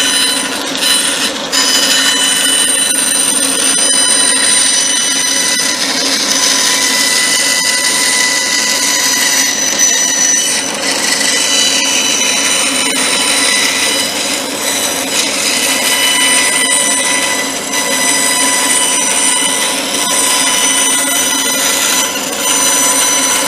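A power tool running steadily on a workpiece, with a shrill, squealing whine of several high tones over a rough grinding noise.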